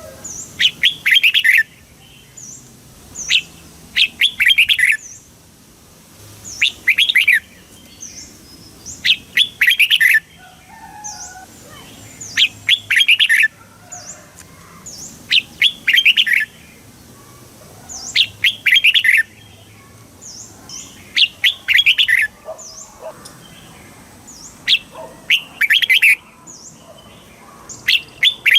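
Red-whiskered bulbul singing short, loud, chirpy song phrases, one about every two to three seconds, with faint high chirps between them.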